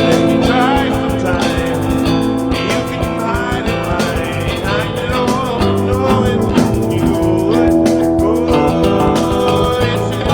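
A band playing, with guitar over a steady drum beat and a voice weaving through.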